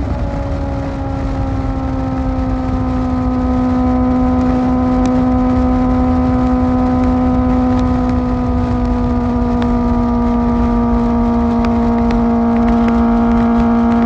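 Kawasaki ZX-4R's inline-four engine with an Akrapovic exhaust running at steady high revs on the move, its pitch stepping down slightly at the start and then sinking slowly. Wind and road rush run underneath.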